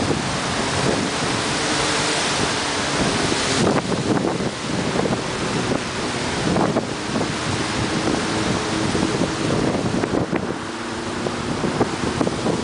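Strong gusting wind buffeting the microphone in a windstorm on a sandy beach. A heavy, hissing gust for the first few seconds cuts off abruptly, then irregular blasts keep battering the microphone.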